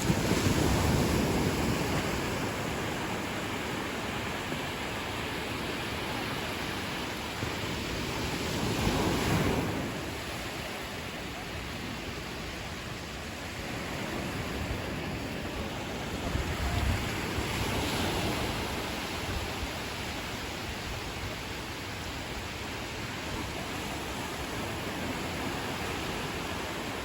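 Ocean waves washing onto a beach as a steady surf, with a louder wave breaking three times, about every nine seconds.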